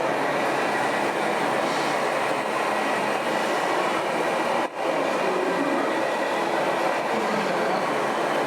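Steady, loud mechanical rolling and rattling noise, briefly dropping out about four and a half seconds in.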